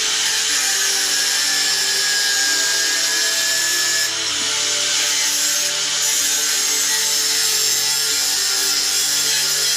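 A power tool running steadily on metal tubing, giving a continuous harsh grinding-type noise with a faint thin whine over it and short dips in level a few times.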